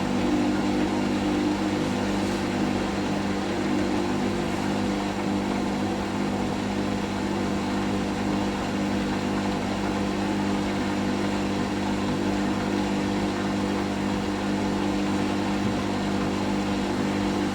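Hoover washing machine's drain pump humming steadily as it pumps out the wash water; the machine drains without an intermediate spin.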